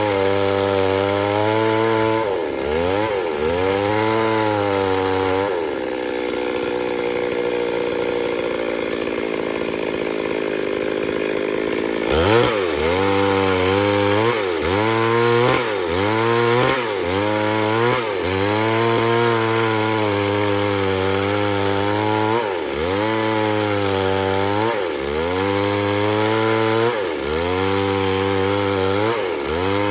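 Two-stroke chainsaw running hard in wood. Its engine note dips and climbs back every couple of seconds as the chain takes load. For several seconds in the first half it holds a steadier, lower note.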